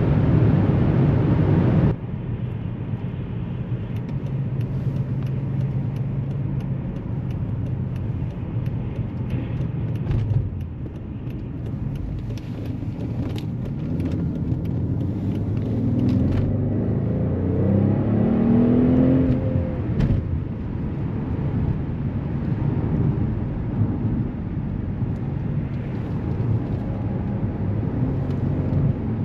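Mercedes S65 AMG's 6.0-litre V12 biturbo engine running on the move, a steady low engine note over road noise. It is louder for the first two seconds, then drops suddenly; past the middle the engine note climbs for a few seconds as the car accelerates, then falls back abruptly about twenty seconds in.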